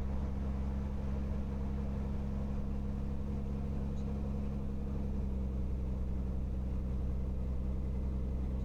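Cirrus SR22T's turbocharged six-cylinder piston engine running steadily at low power, a constant low drone with an even engine note.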